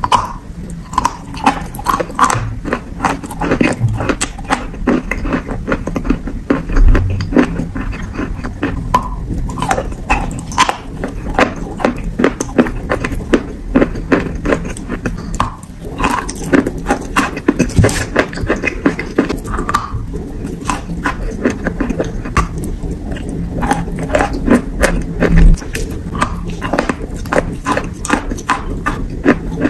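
Close-miked biting and chewing of wet, creamy chalk: a dense, irregular run of crunching, squelching and mouth clicks, with a couple of louder bites.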